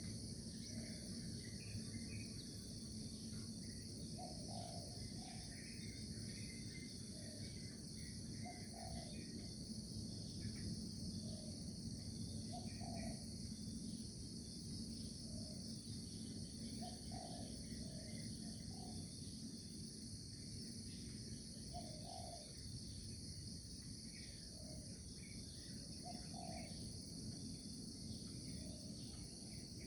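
A steady, high-pitched trilling chorus of crickets. Under it are short low calls that repeat every second or two, scattered faint chirps, and a low background rumble.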